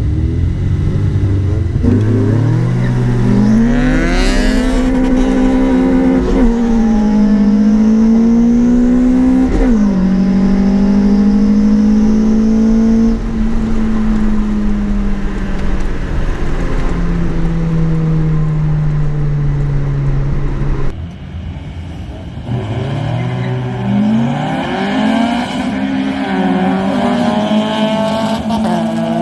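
A Toyota Corolla's 20-valve 4A-GE engine is pulling hard through the gears in a street race. The pitch climbs in each gear and drops at every shift, then it eases off and winds down. The sound breaks off abruptly about two-thirds through, and then a second hard pull starts and climbs again.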